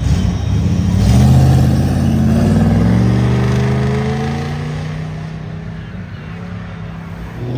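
A car engine accelerating away, its note climbing steadily, then fading as the car drives off.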